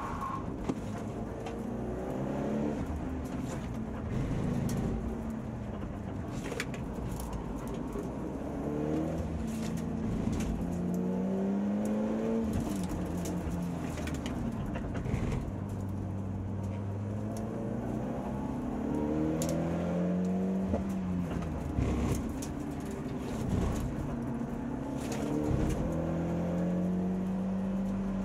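Race car engine heard from inside the cabin, its revs climbing and dropping again and again under acceleration and braking, with a few short knocks along the way.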